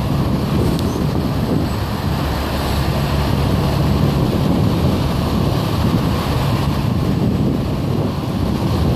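Steady low rumble of wind buffeting the microphone, mixed with a low engine hum from passing vehicles.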